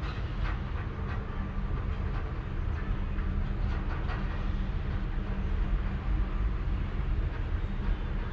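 Sleeping cat purring close to the microphone: a steady low rumble with a fine pulsing texture.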